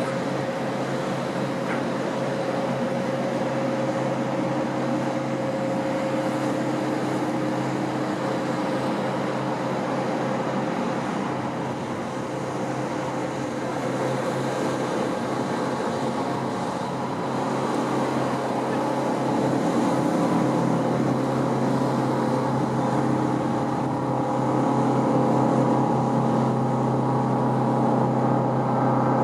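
A passing boat's engine droning steadily, with a low hum, getting louder in the second half as it draws nearer.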